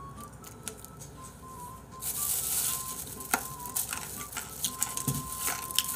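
Crispy fried-chicken batter crackling and crunching as it is chewed close to the microphone, setting in suddenly about two seconds in, with scattered clicks. A faint music melody plays underneath at the start.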